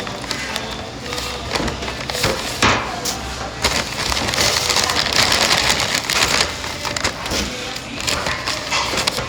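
Crisp crunching and crackling of food close to the microphone, a dense run of small cracks.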